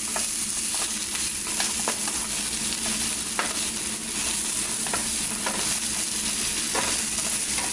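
Sliced mushrooms and diced bell peppers and onion sizzling in olive oil in a frying pan, with a steady hiss. A wooden spatula stirs them, scraping and tapping against the pan now and then.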